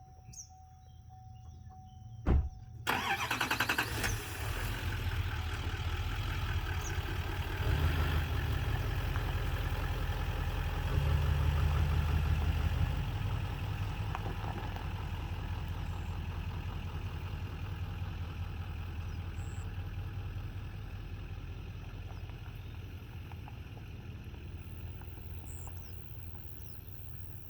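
Chevrolet Duramax pickup's diesel engine starting just after a sharp knock about two seconds in, then running with a steady low rumble. The rumble swells around eight and again around eleven to thirteen seconds and slowly eases off toward the end.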